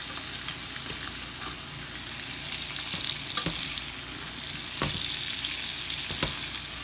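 Steak searing in a hot skillet in butter and oil, sizzling steadily, with a few sharp clicks about halfway through and near the end.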